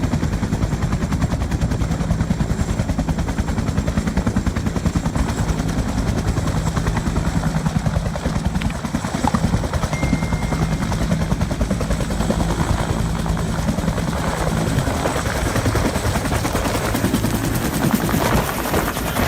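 Helicopter in flight, its rotor blades beating in a rapid, continuous thudding chop.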